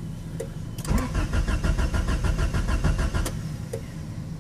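1992 Honda Prelude Si's H23A1 2.3-litre four-cylinder being cranked by the starter: a rhythmic cranking starts about a second in and stops abruptly after about two and a half seconds without the engine catching. It is a no-start fault that new plugs, wires, distributor cap, rotor, fuel pump and timing belt have not cured.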